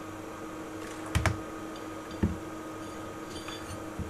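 Steady hum of bench equipment with a faint held tone, broken by two sharp clicks or knocks about a second and two seconds in and a lighter one near the end, typical of hands handling things on the bench.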